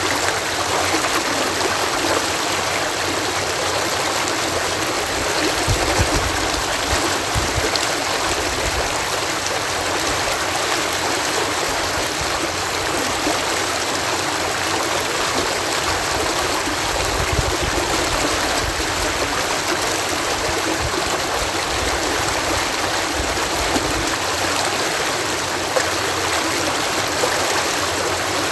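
Water pouring over a canal lock in a steady cascade, a dense rushing splash with a low rumble that comes and goes.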